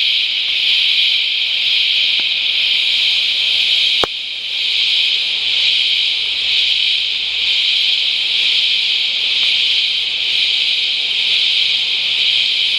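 Deafening chorus of cicadas, a steady, piercing high-pitched drone, the insects just come to life after heavy rain. A click and a brief dip in level about four seconds in.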